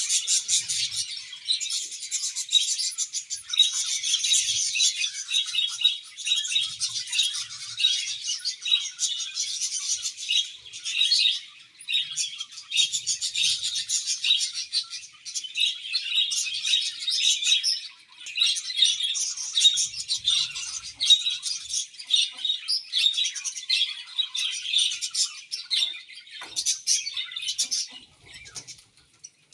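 A flock of budgerigars chirping and warbling together, many birds calling at once in a dense, continuous chatter with a brief lull about two-thirds of the way through.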